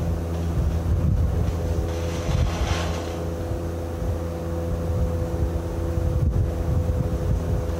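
An engine running steadily: a constant low drone with a steady tone above it and no change in speed.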